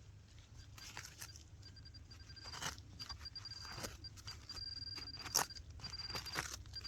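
A metal detector's high electronic tone sounds in short pulses and longer held stretches, signalling metal still in the hole. Scrapes and crunches of soil being dug and handled sound along with it.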